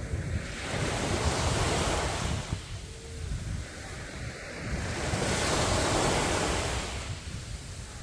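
Sea waves breaking on a beach, two surges of surf a few seconds apart, over a steady low rumble of wind on the microphone.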